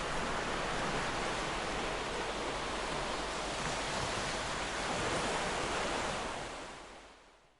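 Ocean surf washing steadily on a beach, a dense continuous rush of breaking waves that fades out near the end.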